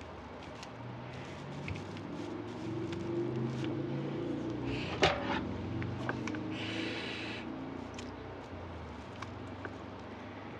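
Handling noises from working on a tinsel wreath: scattered light clicks, one sharp click about halfway through, and a short rustle soon after, over a low steady hum.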